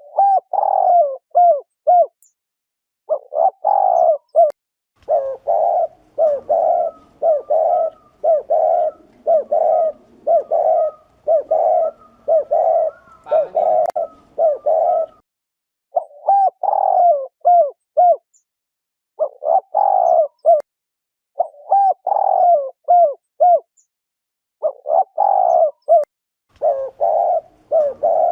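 Spotted doves giving the excited 'gù' display coo: fast runs of short, low coos, phrase after phrase with short pauses between. This is the cooing used to stir up and lure cock doves.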